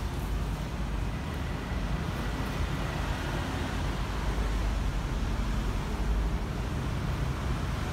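Diesel engine of a Hyundai 15-ton three-axle dump truck running steadily: a steady low rumble.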